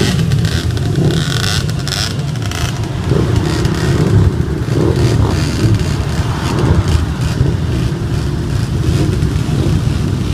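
Several motorcycle engines running, a steady low engine sound with pitch that wavers as the bikes rev and move, and a few brief knocks or bumps in the first few seconds.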